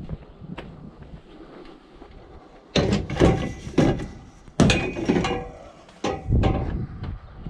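Scrap metal being handled: a run of loud clanks and bangs with metallic ringing, starting about three seconds in and repeating every half second or so until near the end.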